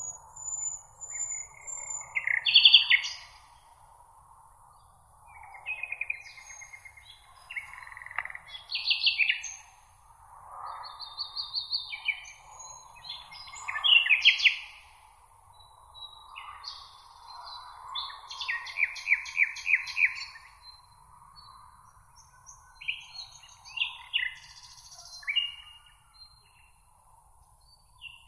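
Songbirds singing: a string of short, varied phrases and trills, some overlapping, with a rapid even trill about two-thirds of the way through. A faint steady hiss runs underneath.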